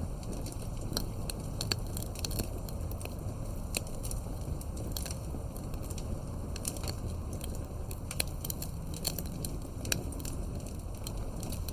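Wood campfire burning steadily, with frequent irregular sharp crackles and pops over a low, even rumble of the flames.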